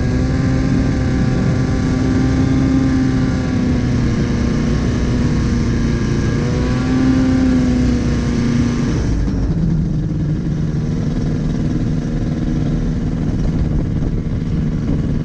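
Rotax 377 two-cylinder two-stroke engine of a Star Flight TX 1000 ultralight running with a steady, slightly wavering note. About nine seconds in the note drops suddenly to a lower pitch and the sound turns duller, and it runs on at that lower pitch.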